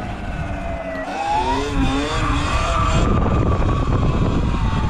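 Motorcycle engine accelerating: its note climbs from about a second in, then holds and slowly eases off. Heavy wind noise on the helmet microphone underneath.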